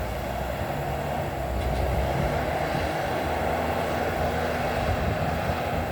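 Bulldozer's diesel engine running steadily at a distance, a low rumble with a steady hum.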